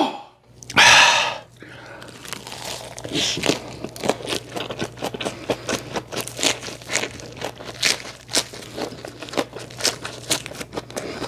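Close-miked chewing of a lettuce wrap with kimchi: many short wet crunches, several a second. A brief loud rush of noise comes about a second in.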